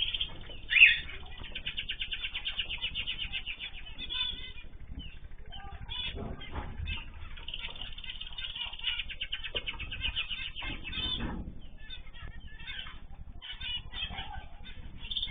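Small caged ornamental birds chirping over one another, with long fast trills and a loud sharp call about a second in.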